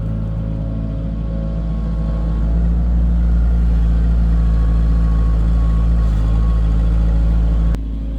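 Heavy construction machine's diesel engine running steadily. It gets louder about two and a half seconds in, then drops back abruptly near the end.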